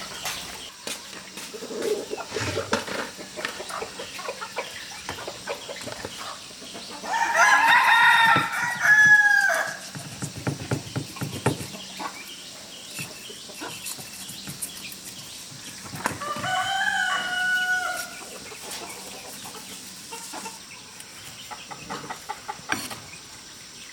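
A rooster crowing twice, each crow a couple of seconds long, the first ending in a falling note, over scattered faint knocks and taps.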